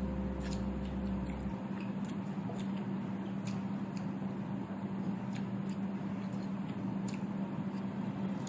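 Chewing and crunching on firm, unripe Indian mango: small irregular crunchy clicks over a steady low hum.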